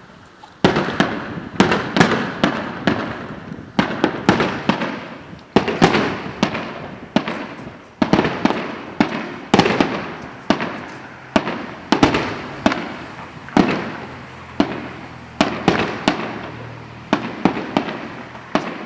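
Fireworks display: aerial shells bursting one after another, about one or two sharp bangs a second, each fading off in a rumbling echo before the next.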